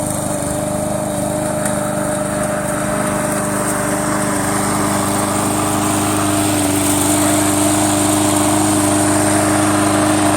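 Remote-controlled push lawn mower running steadily, its motor note even, getting gradually louder as the mower comes closer.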